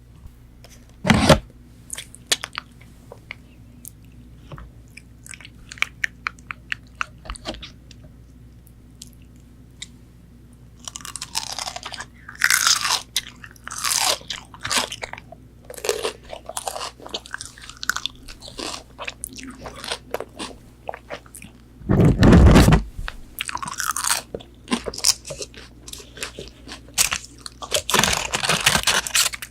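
Close-miked eating of McDonald's chicken nuggets: small mouth clicks at first, then crunchy bites and chewing of the fried coating through the rest. A sharp knock comes about a second in, and a heavier low thump a little past the middle.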